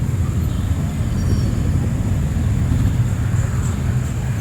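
Steady low rumble of city street ambience, with a faint hiss above it and no distinct events.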